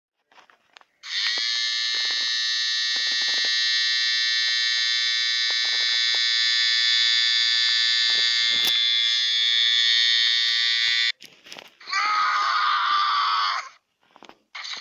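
A loud, steady electronic alarm-like tone with many overtones, lasting about ten seconds and cutting off suddenly. About a second later comes a shorter tone with a slightly wavering pitch, and a third begins near the end.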